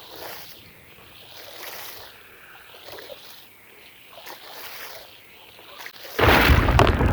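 Rug being washed: soft swishing strokes come about once a second. Near the end a loud, steady rushing wash noise with a low rumble starts abruptly.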